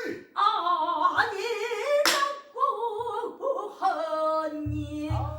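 Female pansori singer holding a long, wavering melismatic line with heavy vibrato. A buk barrel drum comes in with deep strokes near the end.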